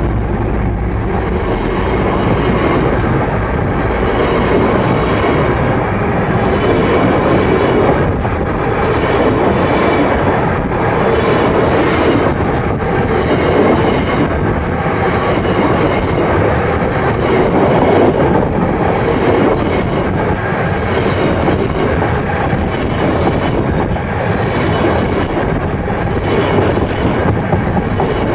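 Freight train of coal hopper wagons rolling directly overhead, a steady loud rumble and clatter of steel wheels on the rails with no let-up.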